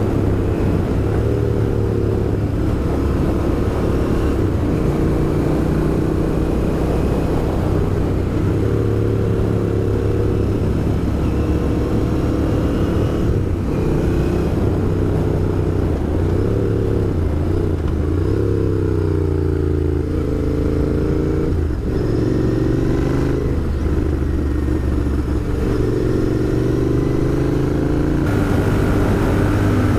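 Royal Enfield Interceptor 650's parallel-twin engine running on the move, its pitch rising and falling as the bike speeds up and slows, with a few brief breaks in the tone.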